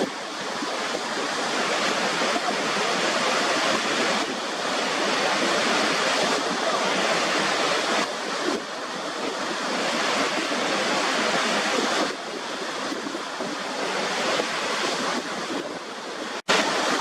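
Waterfall: water rushing steadily, with a very short cut-out near the end.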